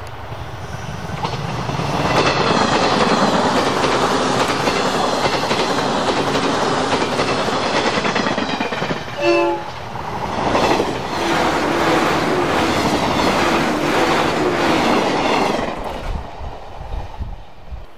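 A bonnet-nosed 485-series limited express electric train passing close by at speed: a loud, steady rush of wheel and running-gear noise with the clatter of wheels over rail joints. About halfway through comes a short pitched tone, and the noise falls away near the end.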